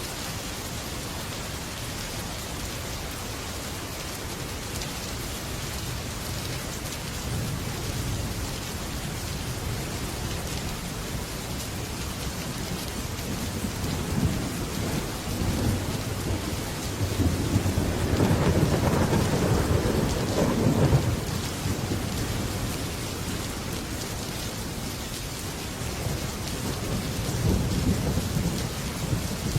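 Heavy rain falling steadily on a metal roof, with thunder that rolls in about halfway through, is loudest a few seconds later, then rumbles again near the end.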